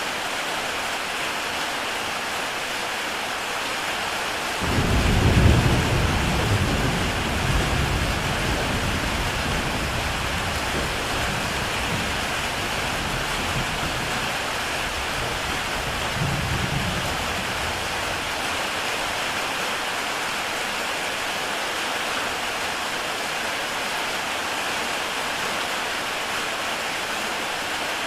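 Heavy rain falling on a tile roof, a steady hiss of drops. About five seconds in a low rumble of thunder starts suddenly, then fades over some ten seconds, with a smaller swell partway through.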